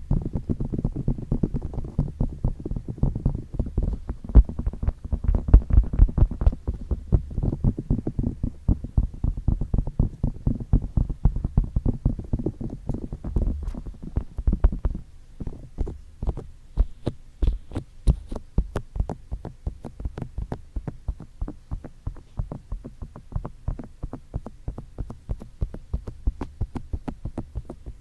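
Fingertips tapping rapidly on microphone ears, several taps a second, with a deep muffled thud to each tap. About halfway through the thudding lightens and the taps become crisper.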